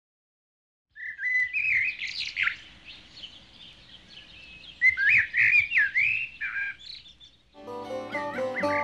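A bird singing in two runs of quick chirps and slurred notes, starting about a second in and again about five seconds in. Guitar music comes in near the end.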